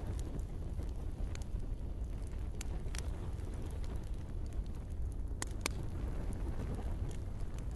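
Campfire burning with a steady low rumble and sharp pops and crackles now and then, two close together a little past the middle.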